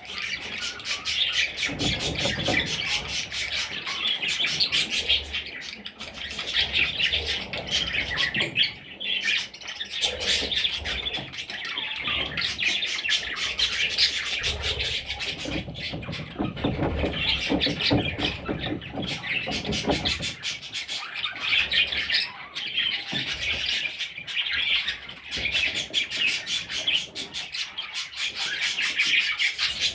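Budgerigars chattering, a continuous stream of high chirps.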